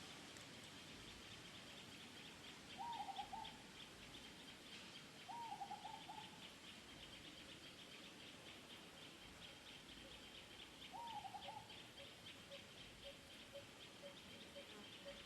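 Three faint short hooting calls a few seconds apart, each a quick run of notes, from a bird in the surrounding woodland, over a steady high trilling background.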